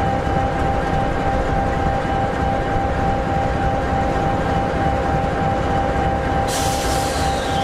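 EMD 16-710G3B two-stroke V16 diesel engine of an SD60E locomotive idling steadily: a dense low rumble with a steady whine on top. Near the end a sudden hiss lasts about a second.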